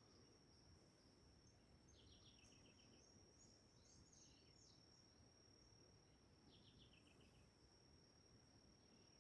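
Faint wild birdsong: a short trill of quick notes stepping down in pitch, heard twice (about two seconds in and near seven seconds), with a few scattered chirps between, over a steady thin high-pitched tone.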